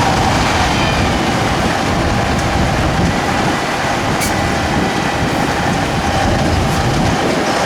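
A 6x6 trial truck's engine working hard, a loud, steady rumble with a faint steady whine above it.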